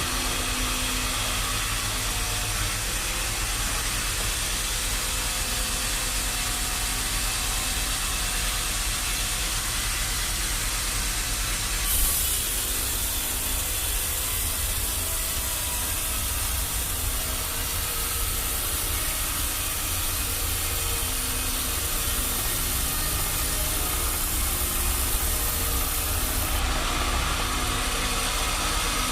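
Machinery running steadily with a low rumble and a hiss. A brief knock comes near the middle, where a higher hiss starts and lasts until near the end.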